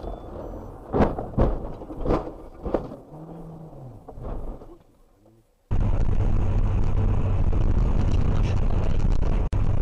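A run of sharp crash impacts and thuds, four or five in the first three seconds, then after a brief cut a car's steady engine and road noise as it drives.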